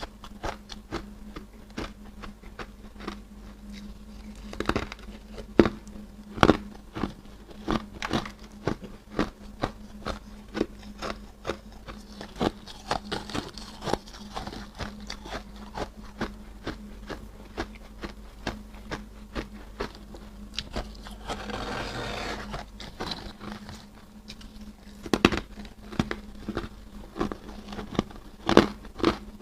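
Freezer frost being bitten and chewed close to the microphone: a quick, irregular run of sharp crunches and clicks, with a couple of longer gritty crunching stretches, over a faint steady low hum.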